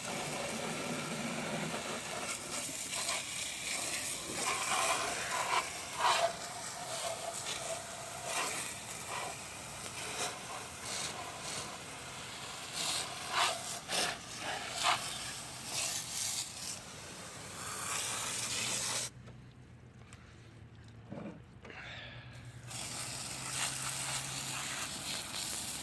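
Steady hiss of rain with scattered taps and knocks; the hiss cuts out suddenly for about three seconds, then returns.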